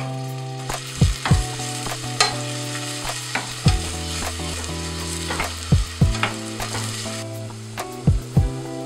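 Food sizzling as it fries in oil in a pan while being stirred, with sharp clicks of the utensil against the pan. The sizzle stops abruptly about seven seconds in.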